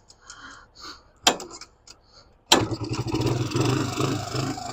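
Small single-cylinder four-stroke engine of a Can-Am DS90 ATV catching about halfway through after a sharp click, then running with a rapid, uneven beat that sags near the end. It won't settle to idle, which the mechanic puts down to a clogged idle circuit in the carburettor.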